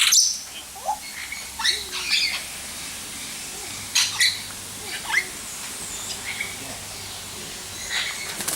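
Aviary birds calling: short, sharp squawks and chirps from several birds, coming in scattered clusters over a steady background hiss.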